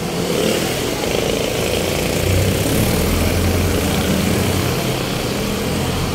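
A vehicle engine running steadily under road and traffic noise; its low hum grows stronger from about two to four seconds in.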